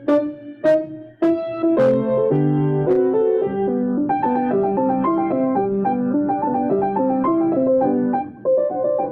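Piano music: a few separately struck chords that ring and fade, then from about two seconds in a steady flow of sustained notes, breaking back into separate chords near the end.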